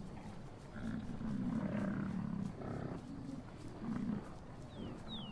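Bison grunting: several low, short calls one after another, with a few short falling bird chirps near the end.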